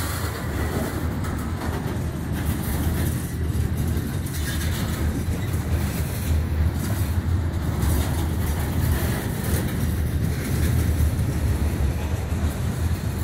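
Covered hopper cars of a freight train rolling past, a steady low rumble of steel wheels on the rails.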